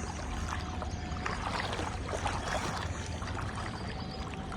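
Pond water trickling and lightly splashing as a fishing net is handled in it, with small irregular crackles over a steady low rumble.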